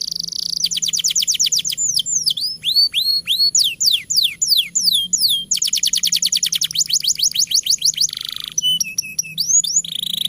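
Canary singing a long, unbroken song: fast trills of sweeping notes, runs of slower falling whistles, and short buzzy rattles. A second fast trill comes in about halfway through, and the song ends on a buzzy note.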